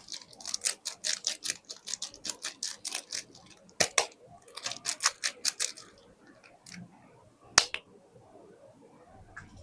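Crisp clicking and scratching from soap packaging being handled: a quick run of about five strokes a second for the first three seconds, then scattered clicks in small clusters and one sharp click about three-quarters of the way through.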